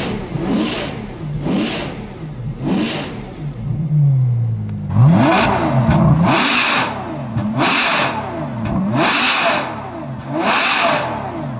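Ferrari F12's naturally aspirated V12 free-revved in neutral through an IPE Innotech valved exhaust with the valves closed: three quick throttle blips, then about five longer, harder revs rising and falling from about five seconds in.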